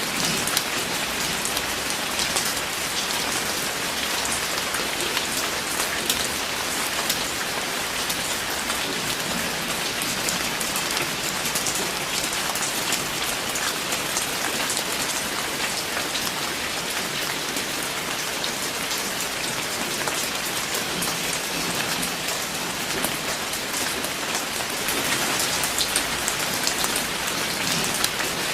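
Steady rain falling on a surface, a dense even hiss with many individual drops pattering through it.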